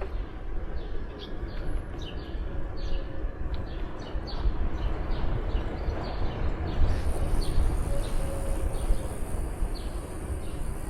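Steady low wind rumble on the microphone of a moving bicycle, with birds chirping in short, quick calls again and again.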